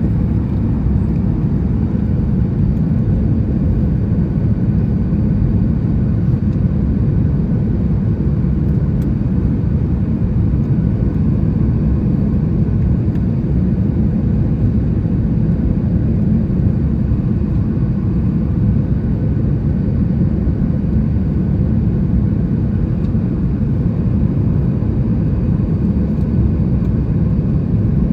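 Steady, even rumble of a Boeing 737 MAX 8 in flight heard from inside the passenger cabin: engine and airflow noise, with most of the sound low and no changes or distinct events.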